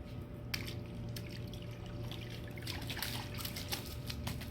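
Water dripping and splashing in small irregular bursts over a steady low hum.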